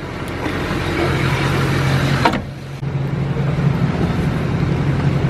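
A motor vehicle's engine running steadily with a low hum, over street noise. The sound drops out briefly about two and a half seconds in, then picks up again.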